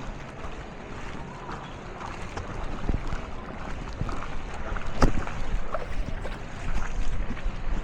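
Vehicle wading through floodwater: steady churning of water and engine rumble with wind on the microphone, and a few sharp splashes or knocks, the loudest about five seconds in.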